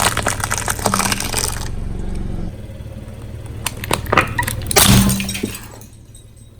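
A car tyre rolling over and crushing brittle objects. A dense crackling thins after about two seconds to scattered snaps, with a couple of louder cracks near the end, over the low steady hum of the car's engine.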